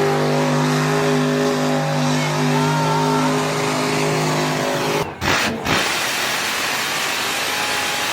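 Truck engine held at steady high revs over a loud rush of spinning tires during a burnout. About five seconds in the sound breaks off abruptly, and the rest is a steady rush without the engine tone.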